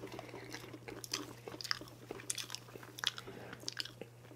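Close-miked chewing of a mouthful of soft chocolate layer cake: irregular wet mouth clicks and smacks. A steady low hum runs underneath.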